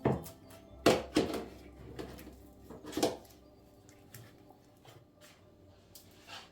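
Soft background music with a handful of sharp knocks and clatters of objects being handled, the loudest about a second in and again at three seconds.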